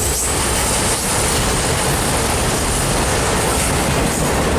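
Auto-rack freight train passing close by: a loud, steady rumble and rush from the locomotives and the wheels on the rails.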